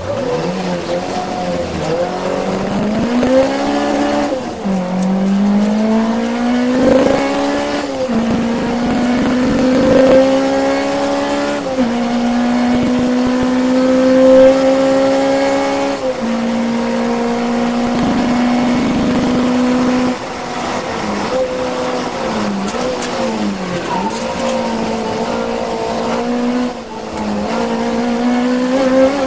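Peugeot 205 1.6 Mi16 rally car's 16-valve four-cylinder engine driven hard on a stage. The pitch climbs and then drops sharply at each gear change. There are several lifts and dips for corners and short steady stretches at high revs between them.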